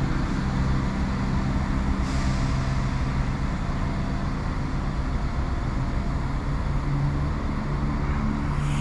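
Diesel multiple unit's underfloor engines running steadily with a low rumble and hum as the four-coach train pulls out of the platform.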